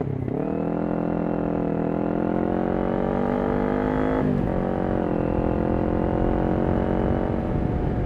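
Kawasaki Ninja 400's parallel-twin engine through a Yoshimura exhaust, accelerating in gear with the revs climbing. It shifts up at the start and again about four seconds in, climbs again, and eases off slightly near the end.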